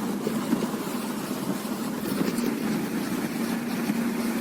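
A VAZ-2112's engine running steadily, heard from inside the cabin as a low hum. The engine is running with low oil pressure, its warning lamp lit, which the owner takes for a serious internal fault needing an engine rebuild.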